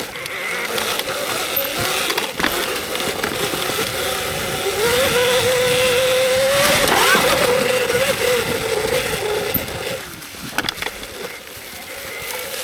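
Electric dirt bike's motor whining under throttle over a steady rush of riding noise; the whine comes in about four seconds in, holds one pitch, and briefly rises near the middle before fading out.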